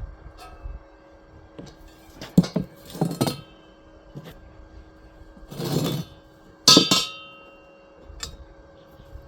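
Tools and hard parts being handled while building a pot stand: scattered knocks and clinks, a short scrape about six seconds in, then one loud ringing clank. A faint steady hum lies underneath.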